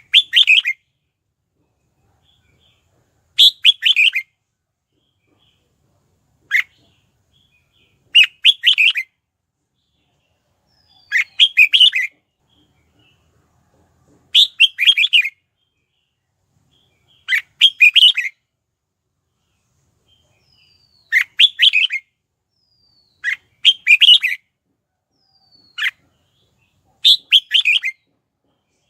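Red-whiskered bulbul singing short, loud, chirpy phrases, repeated about every three seconds with pauses between, some cut down to a single sharp note. This is lure-bird song used to provoke wild or caged bulbuls into answering.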